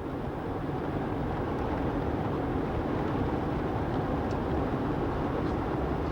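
Steady road and engine noise inside the cabin of a moving 1990 Buick Estate Wagon.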